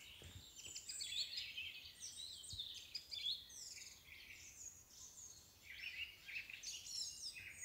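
Songbirds chirping and singing: a continuous chatter of short, quick notes and pitch glides from several birds overlapping.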